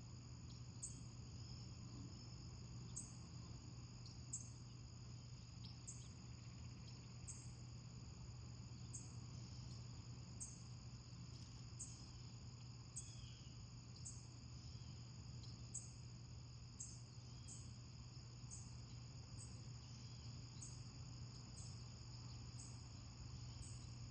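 Faint crickets: a steady high trill with a regular chirp about every 0.7 s, over a low steady hum.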